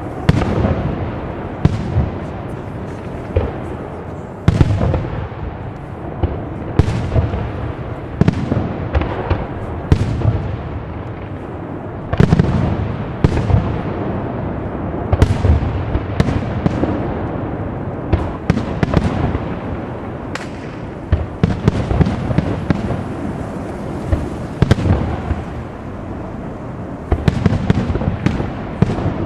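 Aerial firework shells bursting in a rapid, continuous series of sharp bangs, each trailing off in an echo.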